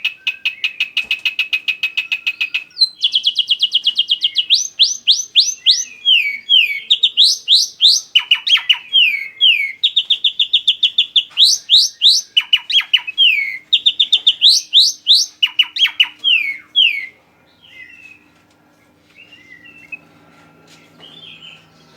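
Bird song played to lure a jalak uren (Javan pied starling) into singing: fast chirping trills alternating with runs of quick rising whistled notes. The song stops about three-quarters of the way through, leaving only a faint low hum.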